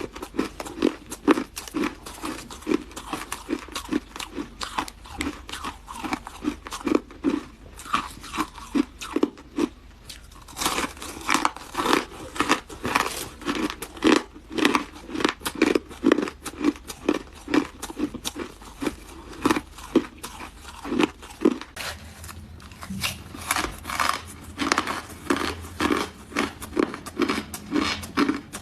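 Close-miked chewing of hard ice: a steady run of sharp crunches, about two or three a second.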